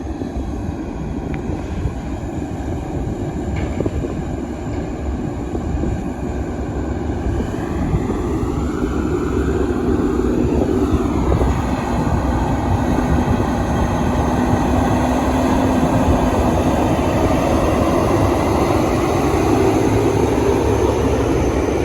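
Loaded logging truck driving down the road, heard from the cab: steady engine and road noise, with the engine pitch climbing for a few seconds about a third of the way in and dropping back shortly after, then the sound building gradually louder.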